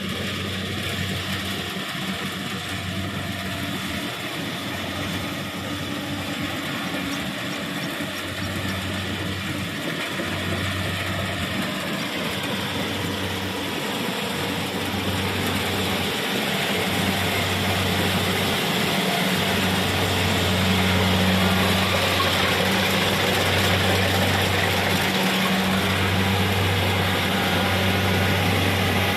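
Kubota rice combine harvester running steadily, with a low engine hum under a broad mechanical din that grows louder in the second half.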